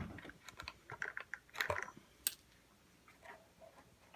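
Small plastic clicks and rattles of hands handling an RC truck, pulling the body clips and lifting off the plastic body, with one sharper click a bit past two seconds in.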